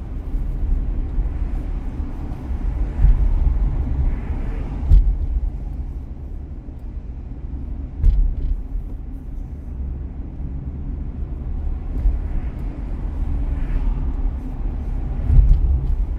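Car being driven: steady low road rumble, with short knocks about five, eight and fifteen seconds in.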